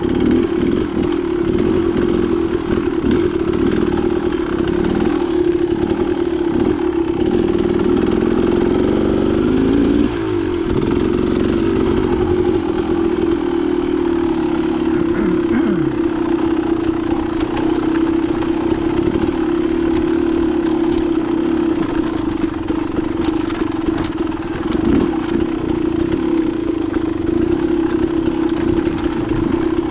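Dirt bike engine running steadily while being ridden. Its pitch climbs about eight to ten seconds in and drops sharply at about ten seconds, as the throttle is opened and then let off.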